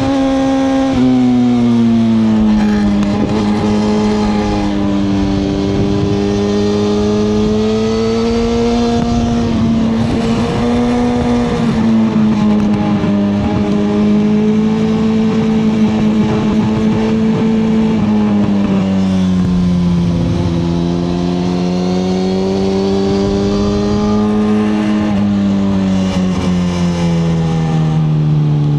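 2021 Suzuki GSX-R1000R's inline-four engine running under way at steady cruising revs, its pitch wandering gently with the throttle. The pitch drops suddenly about a second in and falls slowly near the end, with a steady rush of road and wind noise underneath.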